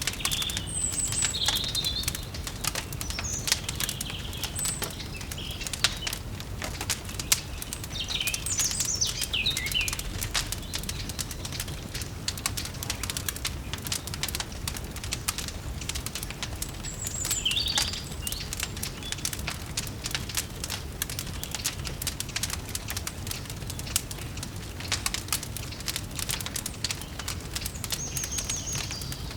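Wood fire crackling with many sharp pops over a steady low hum. Small birds chirp a few times: at the start, about a third of the way in, around the middle, and near the end.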